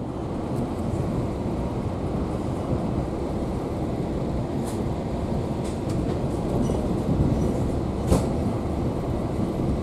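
Steady rumble of a moving passenger train heard from inside the coach, with wheels running on the rails. A few sharp clicks cut through it, the loudest about eight seconds in.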